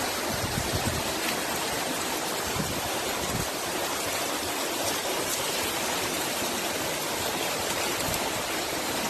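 Steady rush of storm water, a heavy downpour with running water, with a few brief low buffets of wind on the microphone in the first few seconds.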